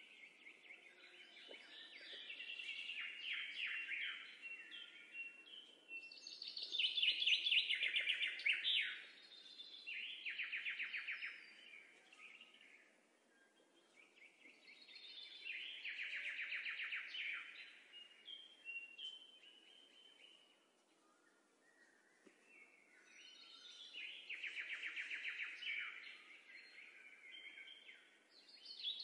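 A small songbird singing phrases of rapid chirping trills, each a few seconds long, with pauses between them.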